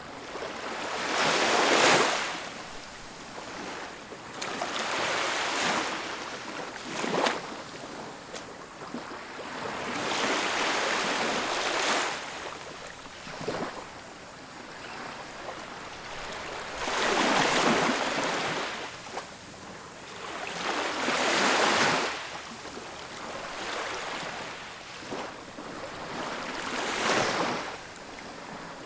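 Ocean waves breaking on a beach. Each one swells up and washes out over a couple of seconds, coming in irregularly every three to five seconds, with a fainter steady surf between them.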